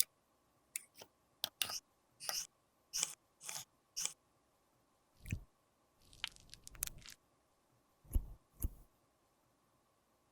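Makeup being worked by hand with tools: a run of about eight short, crisp scraping or crunching strokes. These are followed by a soft low thump, a brief rustling scrape, and two more low thumps.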